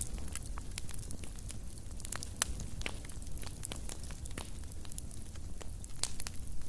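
Fireplace fire crackling: irregular sharp pops and snaps over a low, steady rumble of the flames.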